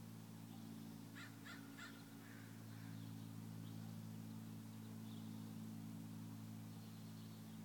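A steady low hum, with three quick harsh bird calls in a row about a second in and a fainter call shortly after.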